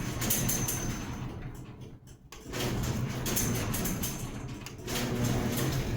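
Garage door moving, with a steady hum. It stops about two seconds in and starts again half a second later.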